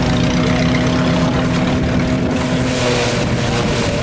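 An engine running steadily, its note dropping slightly about three seconds in.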